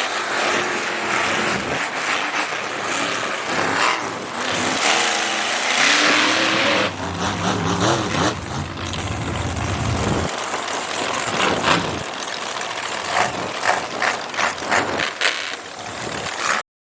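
Monster truck engine running and revving, its pitch rising and falling several times, over loud continuous noise; the sound cuts out suddenly near the end.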